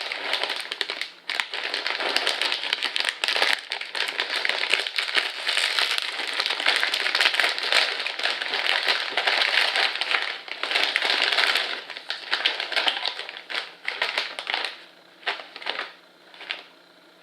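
A snack bag being opened and handled: dense crinkling and crackling of the packaging, thinning to scattered rustles and fading near the end.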